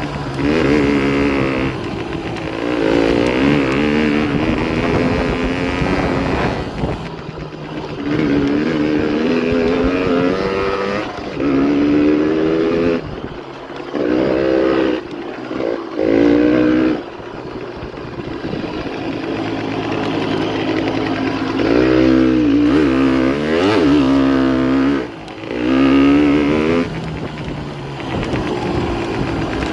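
Honda CRM125R two-stroke single-cylinder dirt bike being ridden, its engine rising and falling in pitch over and over as the throttle is opened and closed, with a few short drops where the throttle is shut off.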